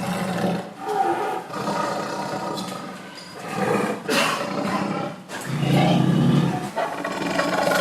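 A large animal giving a series of loud, rough roaring calls, one after another, the longest and loudest about two-thirds of the way through.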